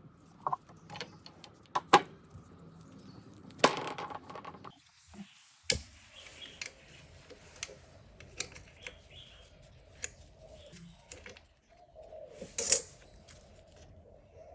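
Irregular sharp clicks and light metallic clinks of hand tools and small metal parts being handled, with a couple of brief louder scraping bursts, one about four seconds in and one near the end.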